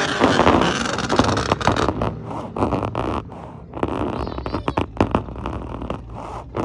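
Engine of a ProCharger-supercharged Pontiac G8, loud and distorted on the recording. It runs hard for about two seconds, then settles to a lower rumble broken by sharp cracks and pops.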